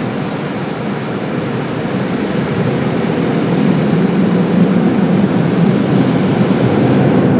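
Tunnel car wash equipment running: a steady, loud rushing noise with no breaks.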